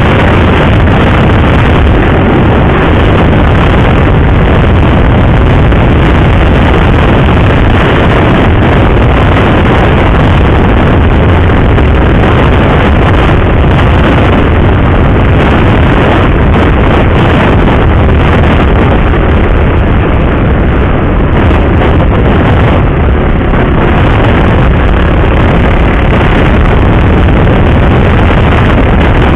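Wind rushing over a helmet-mounted microphone at riding speed, with a motorcycle engine running steadily underneath.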